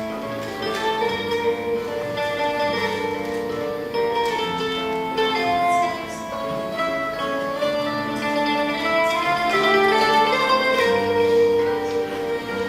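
Live ensemble music played on plucked string instruments, guitar-like, carrying a melody over held chords.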